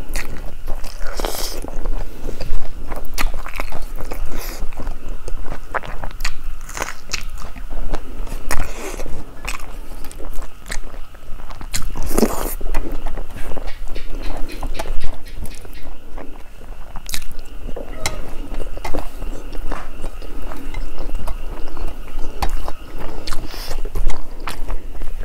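Close-miked chewing and biting as someone eats rice and fresh herbs by hand: many irregular sharp clicks of mouth and teeth.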